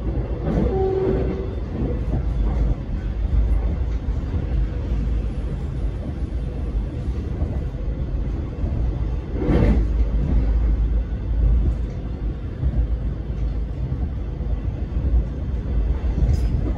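Alstom X'Trapolis electric train running along the track, a steady low rumble of wheels and running gear, with a single sharp knock a little over halfway through.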